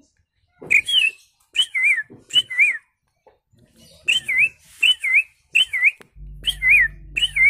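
A man's mouth-whistled imitation of a songbird: about a dozen short, clear slurred notes, each dipping and rising in pitch, given in three quick phrases. Each phrase holds three to five notes.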